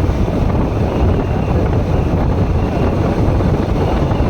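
Steady wind rush buffeting the microphone of a motorcycle under way, a dense low rumble with no breaks.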